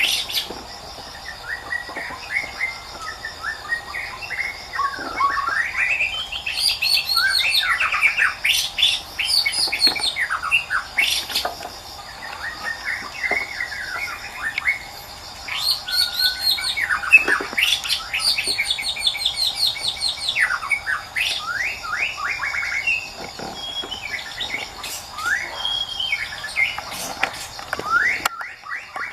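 White-rumped shama singing a long, varied song of clear whistles, quick rising and falling sweeps and fast trills, over a steady high-pitched hum in the background.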